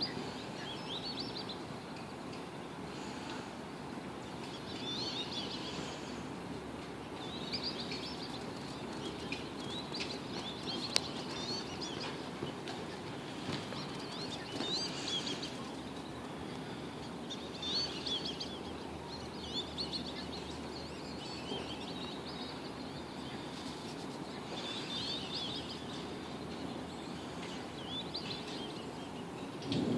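Songbirds singing in short warbled phrases every couple of seconds, over steady background noise.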